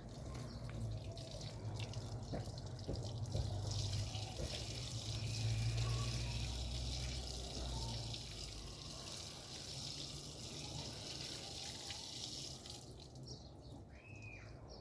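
Water running steadily in a stream from a tap or a pour, cutting off suddenly near the end, followed by a single short bird chirp.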